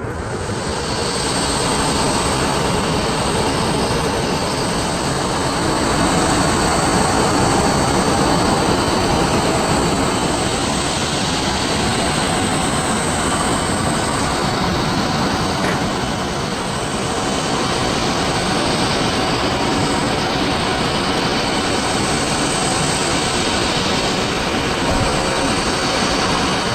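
Aircraft engines running loudly and steadily: a dense rushing noise with a faint high whine, swelling a little for a few seconds.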